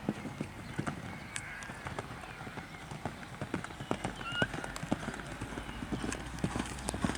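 A horse's hoofbeats, a run of irregular knocking strikes.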